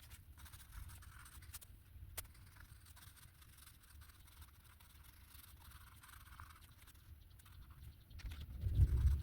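A pen scratching on paper in short strokes as a drawing is made, over a low rumble. A louder low thump comes near the end.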